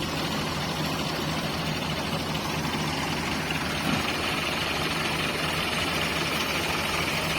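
Ford tractor engines running steadily under heavy load, straining to pull a stuck trolley through soft sand as the tractors sink in.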